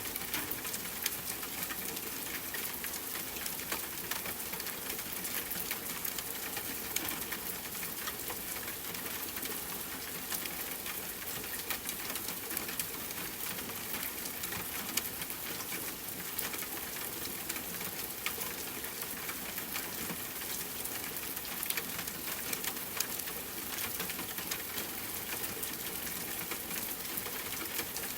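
Steady rain falling with a crackling campfire: an even hiss with many small, sharp pops and ticks scattered throughout.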